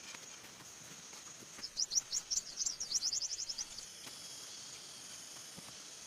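A bird singing a rapid trill of short, high chirps for about two seconds, the notes coming faster toward the end, over a steady high insect drone.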